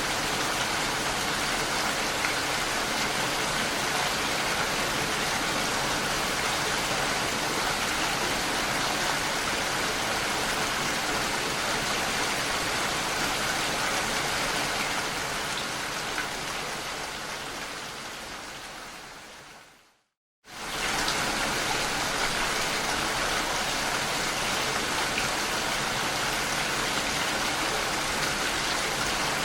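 Steady rain falling. About two-thirds of the way through it fades out, stops for half a second, then cuts straight back in at full level.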